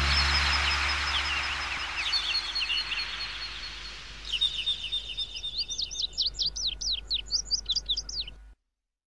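Birds chirping in quick runs of high, sweeping notes, louder from about four seconds in, over the fading tail of a music track. Everything cuts off suddenly near the end.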